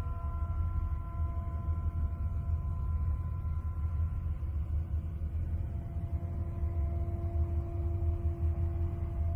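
Space-sound track presented as NASA's sound of Io, Jupiter's moon: a steady low rumbling drone with a few faint held tones above it that fade in and out; the higher tones fade over the first half and a lower one grows stronger near the end.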